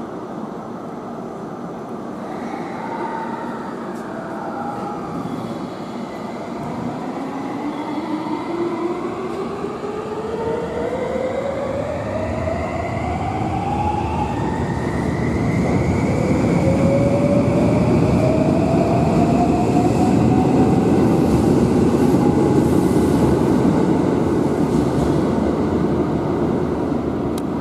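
Electric train pulling away, its traction motors whining in tones that rise in pitch as it gathers speed, with the rumble of its wheels growing louder.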